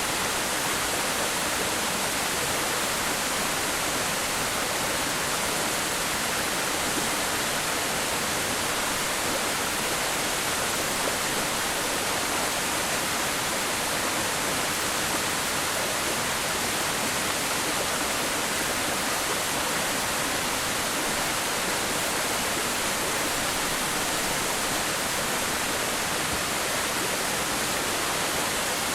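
Waterfall crashing into its pool: a steady, unbroken rush of falling water with a full, hiss-like sound strongest in the upper range.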